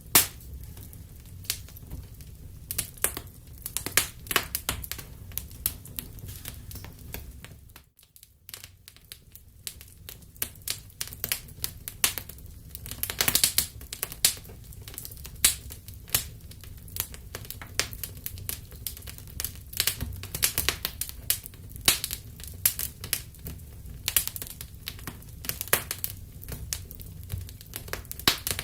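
Wood fire in a fireplace crackling, with frequent irregular sharp pops over a low steady rumble. The sound dips briefly about eight seconds in before the crackling resumes.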